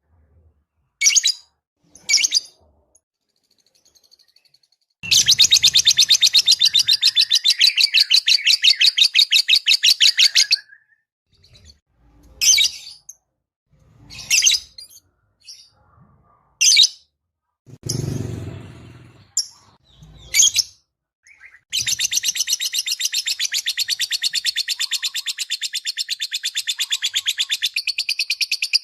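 Lovebird calling: two long, rapid, even trills, one early on and one starting past the middle and running on, with short sharp chirps between them. A brief low rustle or bump comes about two-thirds of the way through.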